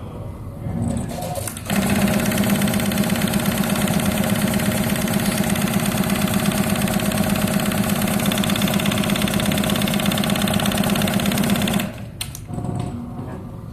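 Eye mask sewing machine stitching at speed in a fast, even rhythm. It starts about two seconds in and stops near the end, with a few lighter mechanical clunks just before and after it runs.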